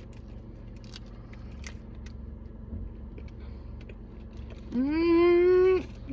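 A woman's drawn-out "mmm" of enjoyment while eating chocolate: one held, humming note about a second long near the end, after a few quiet seconds.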